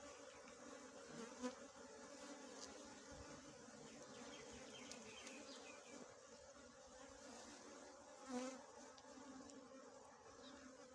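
Faint, steady buzzing of a colony of small honeybees, swelling louder briefly twice.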